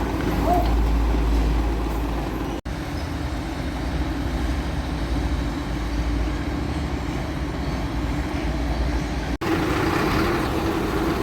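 Heavy diesel truck engine running steadily. The sound drops out for an instant twice, about two and a half seconds in and again near the end.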